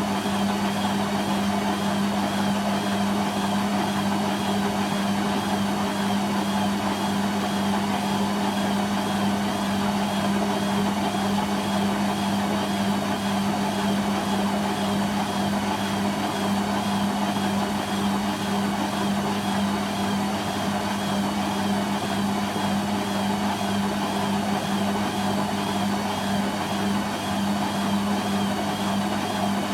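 Hoover Quattro AE130 washing machine spinning at a steady speed: a constant motor hum over the rushing of the drum.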